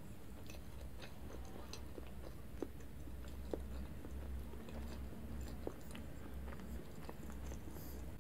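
Close-miked chewing of a mouthful of soft, cream-layered sponge cake, with small wet mouth clicks scattered throughout over a faint, steady low hum.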